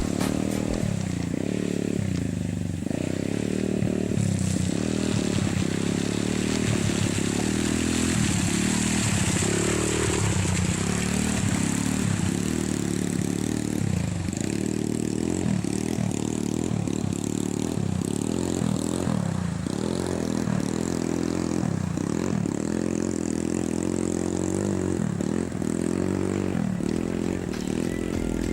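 Motorcycle engine running while riding, its pitch dipping and climbing again every second or two as the throttle is closed and reopened.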